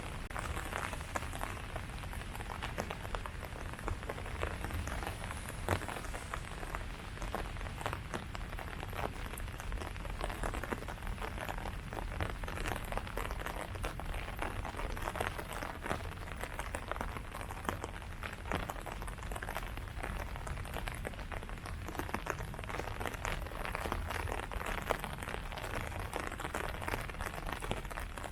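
Steady rain falling on tree leaves: countless separate drop hits over a continuous hiss, with a low rumble underneath.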